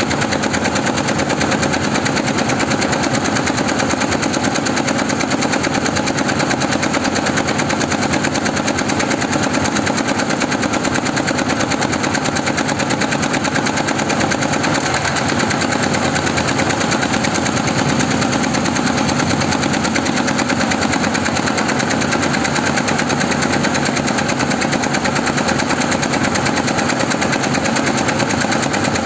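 Embroidery machine stitching at high speed: a steady, very fast rapid-fire clatter of the needle mechanism.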